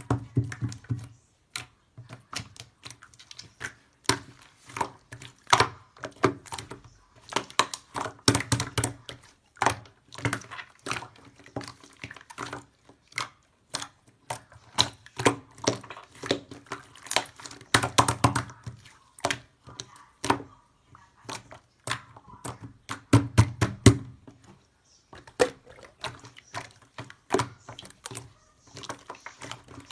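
A quick, irregular run of clicks and taps with soft thuds among them, like small objects being handled close to the microphone.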